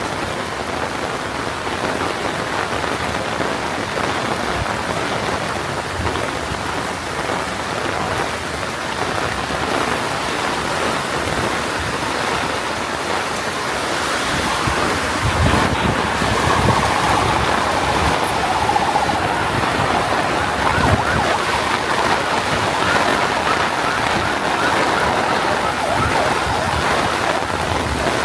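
Heavy rain falling steadily. About halfway through, a motor vehicle's sound joins the rain, with a steady mid-pitched hum that grows a little louder.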